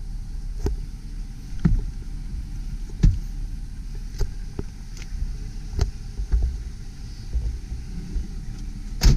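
Scattered short knocks and clicks from handling the pickup's extended-cab interior, its fold-away rear jump seats and trim, over a steady low rumble.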